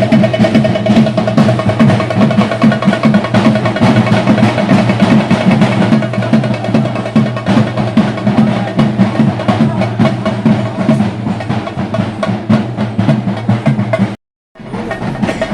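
Traditional Kerala temple drumming, chenda drums struck in a fast, dense roll, with a steady high held note over it. The sound cuts out for a moment near the end, then resumes.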